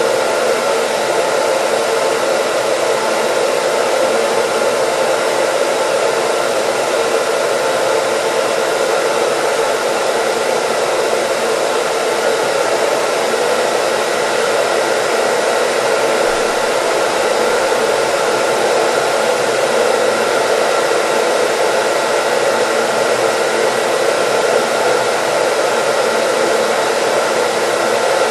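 Hair dryer running continuously: an even, steady rush of blown air with a faint constant motor whine, used as white noise.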